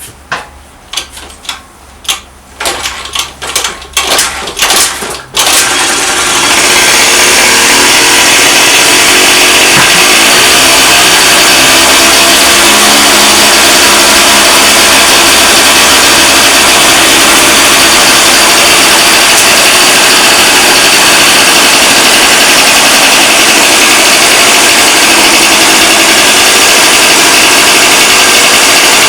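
Honda Dio ZX's 50 cc two-stroke scooter engine, freshly fitted with a new cylinder and reed valve, is cranked in a series of separate strokes. It catches about five seconds in and then runs steadily.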